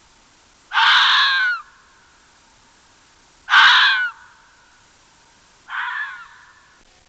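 An animal giving three harsh, loud calls a few seconds apart, each under a second long with a falling pitch at its end; the third call is weaker.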